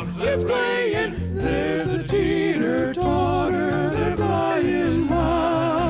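Upbeat children's song: a sung melody over a bass line and a steady beat, ending in long wavering held notes near the end.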